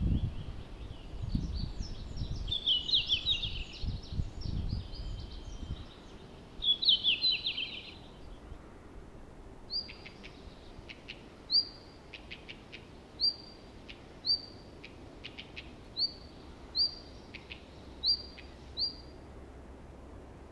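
Red-flanked bluetail singing three short warbled song phrases in the first eight seconds, then repeating a short high rising call note about once a second with short clicks between. A low rumble runs under the first six seconds.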